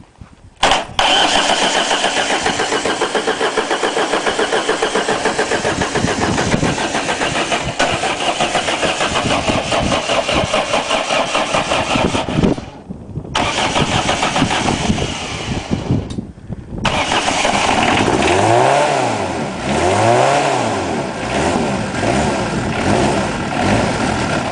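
Ford Escort van's 1.8-litre four-cylinder diesel turning over on the starter motor in a long spell of about eleven seconds, then a shorter one, on a cold start after months standing. On the next try it catches and runs unevenly, revved up and down twice, which the owner thinks is air in the fuel.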